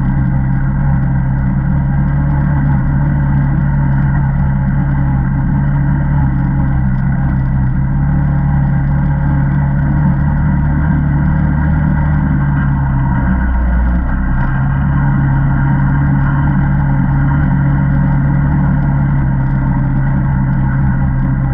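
Single-cylinder ATV engine running steadily while riding. About two-thirds of the way through, the engine note drops and wavers briefly, then returns.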